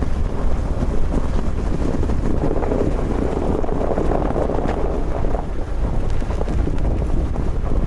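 Wind blowing across the microphone: a steady rushing noise with a deep rumble.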